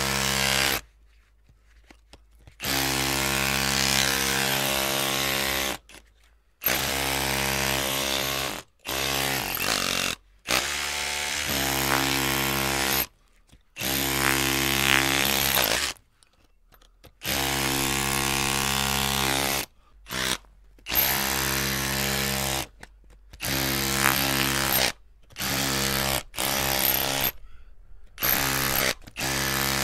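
Power drill motor whirring in repeated bursts, the trigger pulled for one to three seconds at a time and released in between, about a dozen times.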